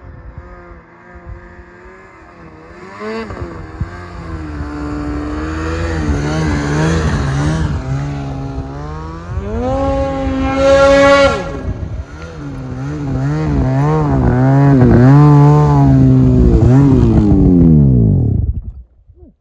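Snowmobile engine revving up and down repeatedly, growing louder as it comes closer. Near the end its pitch falls and it cuts off.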